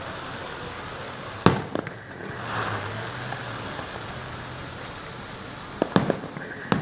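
Fireworks bursting: one loud bang about a second and a half in, followed by a few smaller cracks, then another quick cluster of bangs near the end.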